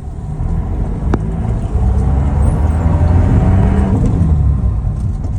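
Engine and road noise of a moving vehicle: a loud low rumble that swells up sharply at the start, with one sharp click about a second in.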